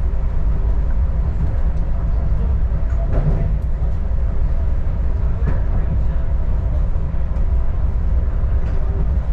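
Diesel railcar running, heard from inside the carriage: a steady, heavy low rumble of the engine and the wheels on the track.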